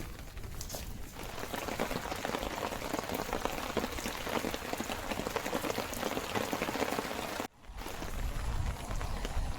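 Steady rain falling, a dense patter of drops. It cuts out abruptly for a moment about three-quarters of the way through, then resumes with more low rumble.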